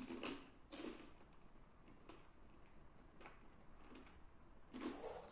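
Faint, close mouth noises from eating: soft clicks and smacks about once a second.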